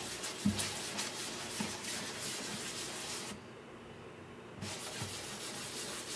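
Hand sanding on wood: abrasive rubbing in repeated strokes, pausing for about a second midway before starting again.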